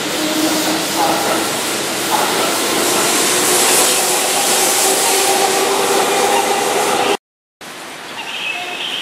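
Keihan electric commuter train moving along the platform: a steady rumble of wheels on rail with the hum of its traction motors. About seven seconds in the sound cuts off for a moment, then returns as quieter station ambience.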